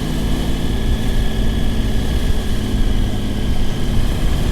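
Motorcycle engine running steadily under way, with wind rushing over the helmet microphone.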